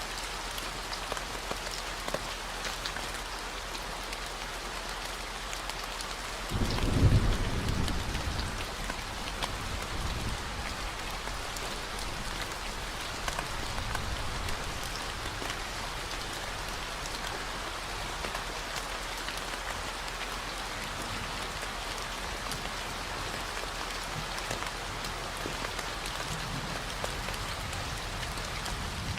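Steady rain falling, with a roll of thunder about six and a half seconds in that dies away over several seconds, and another low rumble building near the end. Underneath runs a steady 40 Hz gamma-wave tone.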